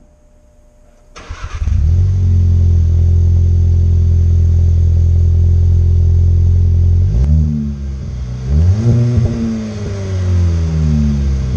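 Volkswagen Golf SportWagen's 1.8T turbocharged four-cylinder engine starting about a second in and settling into a steady idle through a custom cat-back exhaust with a MagnaFlow muffler. Past halfway it is revved twice, rising and falling in pitch, then drops back to idle.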